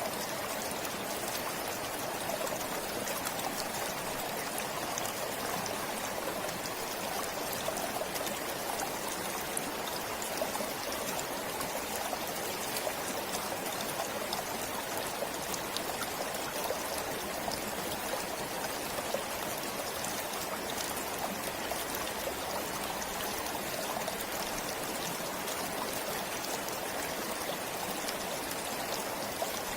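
A forest stream flowing and trickling steadily, with many small splashes over a continuous rush of water.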